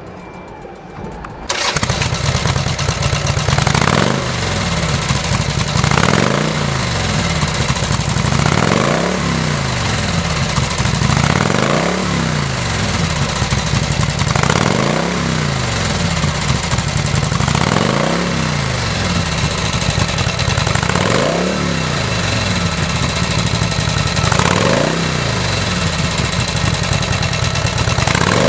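Harley-Davidson Sportster 1200's air-cooled V-twin, breathing through an S&S carburettor, starts up about a second and a half in. It then idles with about ten quick throttle blips, the revs rising and falling every few seconds.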